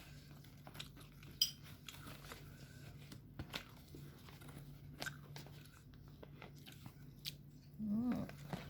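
Close-up eating sounds: chewing and crunching with scattered sharp mouth clicks. A short hummed vocal sound comes near the end, over a steady low hum.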